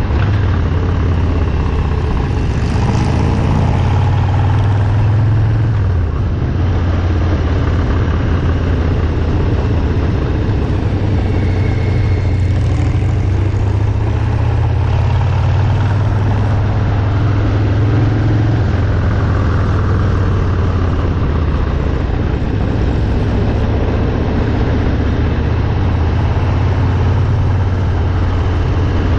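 Harley-Davidson Milwaukee-Eight V-twin motorcycle engines running under way, the low engine note rising and falling a little as the throttle comes on and off, with a steady rush of noise over it.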